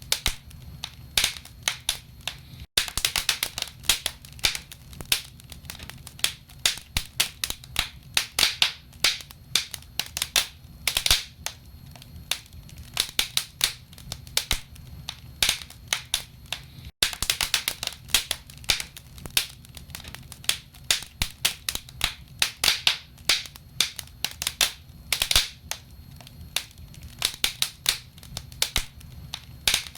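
Wood fire crackling in a fireplace: many irregular sharp pops and snaps from burning logs over a steady low rumble. The sound cuts out for an instant twice.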